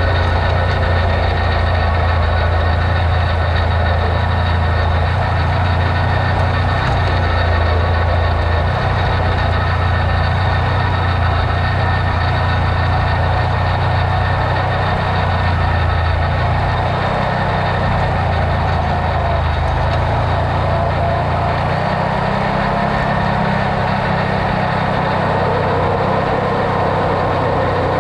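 Off-road vehicle's engine running steadily, its low drone changing pitch about two-thirds of the way through as engine speed shifts.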